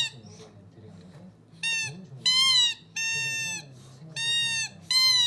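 Baby's toy rattle-trumpet blown in short, high, reedy toots, about five in a row with brief gaps, each lasting around half a second with the pitch bending slightly.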